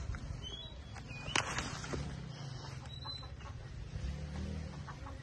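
A few short, high bird calls over a low steady rumble, with one sharp knock about a second and a half in.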